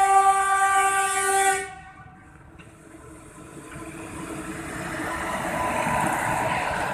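Electric freight locomotive's horn sounding one loud sustained chord that cuts off about a second and a half in, then the rumble of the locomotive and its freight wagons rolling on the rails, growing louder as they pass.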